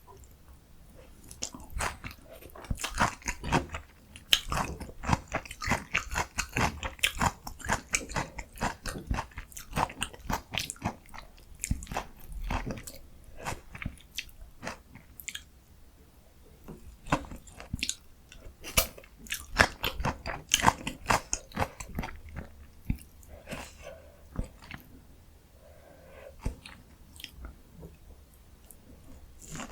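Close-miked eating: crisp bites and steady chewing of breaded, deep-fried pork cutlet, with dense irregular crunching that eases off for a few seconds now and then.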